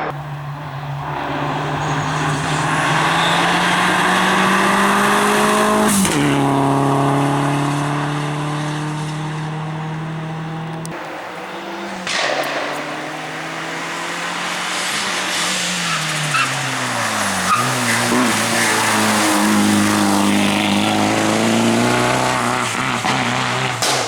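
Toyota Celica rally car's engine under hard acceleration. The revs climb and then drop sharply with an upshift and a short crack about six seconds in. Around eleven seconds the revs fall away as the throttle eases, then they build and swing up and down again through the rest.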